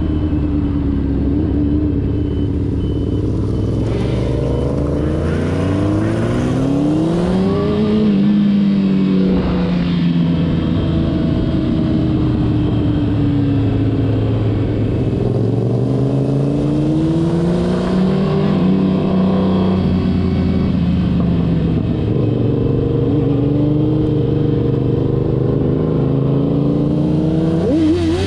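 Car engines revving, their pitch rising and falling slowly over several seconds, with more than one engine running at once.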